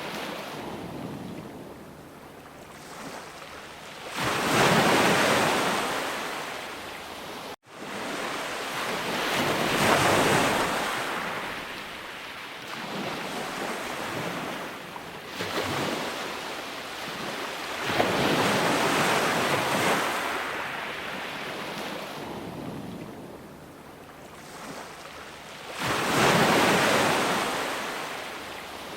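Sea waves breaking on a shore, each one swelling up and washing back over several seconds. The sound cuts out for an instant about a quarter of the way in.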